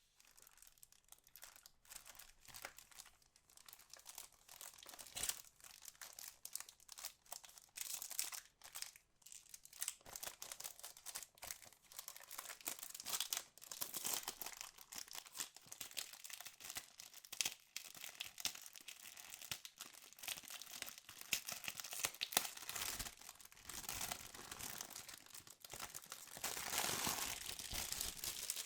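Plastic wrapping on a trading card box crinkling and tearing as it is handled and pulled open, in a steady run of irregular crackles that gets busiest near the end.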